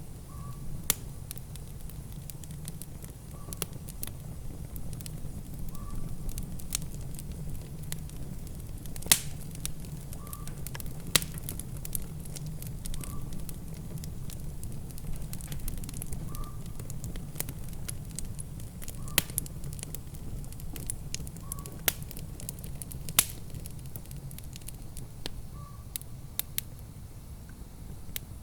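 Wood fire crackling in a fireplace: sharp, irregular pops and snaps, a few each second and some louder than others, over a steady low rumble. A faint short high blip recurs every two to three seconds.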